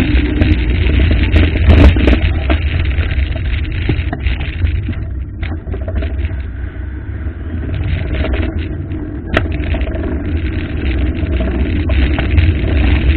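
Rushing water of a waterfall: a loud, steady noise with a strong low rumble.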